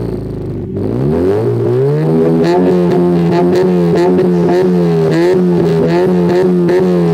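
Car engine revving: the pitch drops, climbs back up over about a second, then holds steady at high revs, with music and a steady beat underneath.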